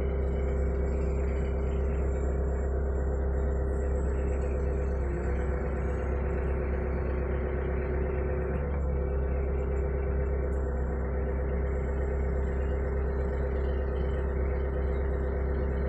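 Hitachi mini excavator's diesel engine running steadily with a low rumble and a steady whine; the whine dips in pitch briefly about five seconds in, then comes back up.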